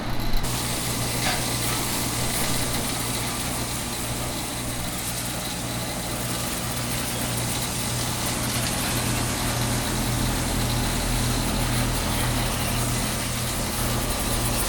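Water spraying from a hose nozzle onto an AC condenser's coils and fan, a steady hiss that starts about half a second in, over a steady low machine hum.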